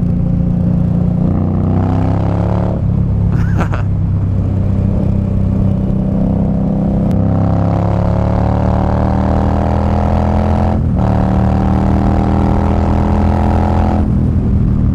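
Indian Scout Bobber's V-twin engine running under way, its pitch stepping up and down several times as the rider works through the gears, with a brief break in the sound about eleven seconds in.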